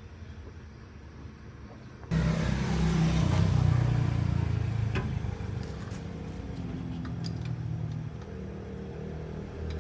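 Car engine running; about two seconds in it turns abruptly much louder and keeps running steadily, with a few light clicks, easing a little near the end.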